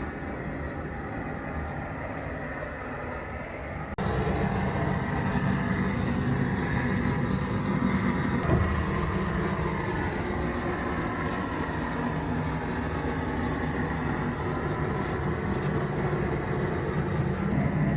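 A motor running steadily with a dense, low rumble, stepping suddenly louder about four seconds in.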